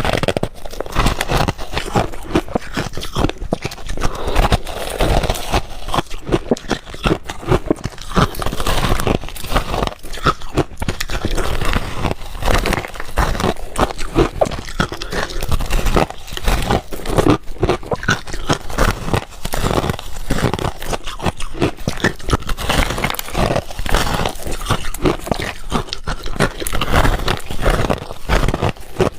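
A person crunching and chewing ice cubes: a steady run of sharp cracks and crunches with no pause.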